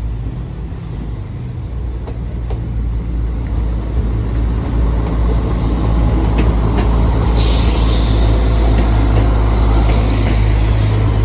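Diesel passenger train pulling away and running past, its engine drone growing louder, with the rush and rattle of wheels on the rails added from about seven seconds in.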